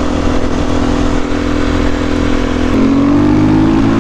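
Vehicle engine running at a steady pitch, then rising in pitch as it speeds up from a little under three seconds in, over a low wind rumble.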